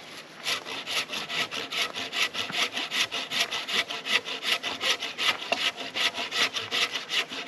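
Quick, even rasping strokes, about four a second, like a saw or something rubbed back and forth, starting about half a second in.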